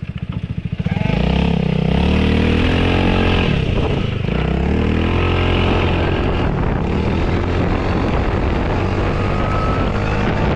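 Quad bike engine idling with a low pulse, then revving up about a second in. Its pitch rises and falls a few times before it settles into steady running.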